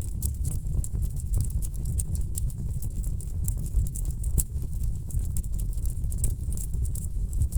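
Wood fire burning in a fireplace: a steady low rumble of flames with dense, irregular crackles and pops from the burning logs, a few sharper pops standing out.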